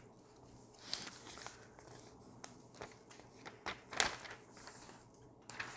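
Faint rustling and scattered light clicks from something being handled, with one sharper click about four seconds in.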